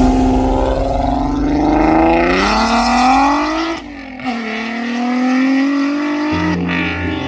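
A car engine revving hard as it accelerates away: the pitch climbs for a couple of seconds, cuts off sharply about four seconds in, then climbs again.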